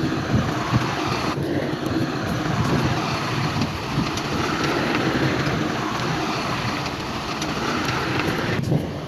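Heavy diesel earthmoving machinery running steadily, a deep engine rumble with a rougher hiss on top that steps up about a second and a half in and drops away near the end.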